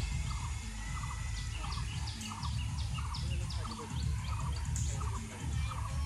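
A bird calling over and over in short, evenly spaced notes, about three a second, over a low rumble.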